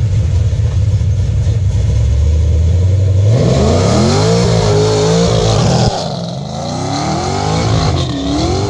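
Nissan 370Z's 3.7-litre V6 idling steadily through its aftermarket exhaust, then revved hard several times about three seconds in, the pitch climbing and falling between blips.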